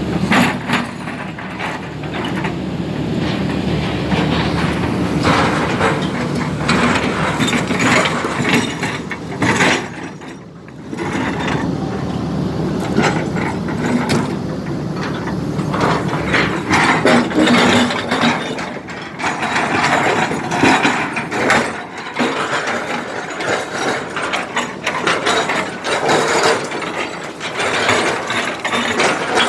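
Caterpillar 320D hydraulic excavator at work: its diesel engine running under a dense, uneven clatter of metal on metal, with a brief drop in level about ten seconds in.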